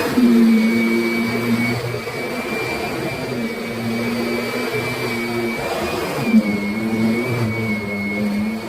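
Kirby Sentria upright vacuum cleaner running, with a steady high motor whine and a lower hum that swells and drops away every two seconds or so.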